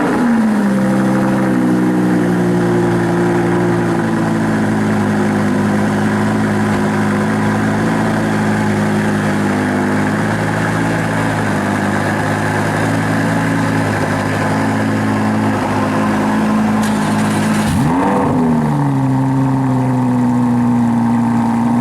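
Lamborghini Huracán V10 cold-starting: it fires with a rising rev flare and settles into a loud, high fast idle that slowly drops in pitch. About 18 seconds in, a second Huracán V10 fires with another rev flare and settles into high idle.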